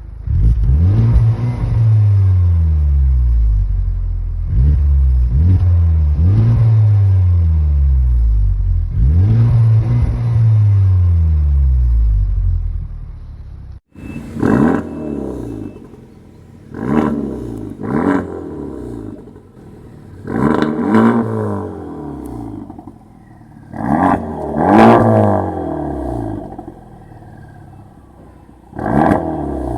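Honda Civic Type R FK8's 2.0-litre turbocharged four-cylinder being revved repeatedly, the pitch sweeping up and falling back each time, heard through two exhaust setups: the stock exhaust and a Milltek aftermarket system. About 14 seconds in, a hard cut switches to a second recording, where the revs come as separate sharp blips with a brighter, rasp-filled sound and quieter gaps between them.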